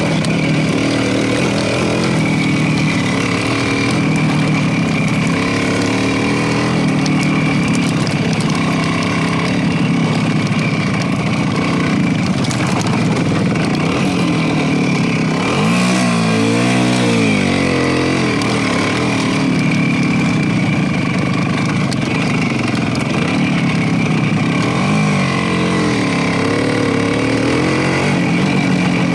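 Motorcycle engine running under way, a steady drone that rises and falls in pitch with the throttle about halfway through and again near the end.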